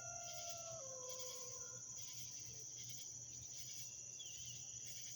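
Several wild canids howling together at a distance, the overlapping howls sliding down in pitch and dying out about a second and a half in, over a steady high insect trill.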